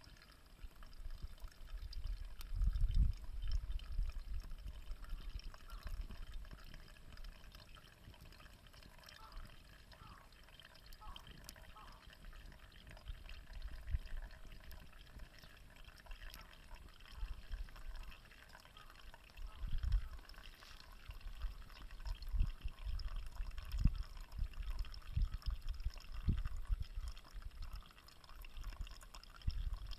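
Campfire burning with small scattered crackles, and irregular low rumbles around the start and again in the second half.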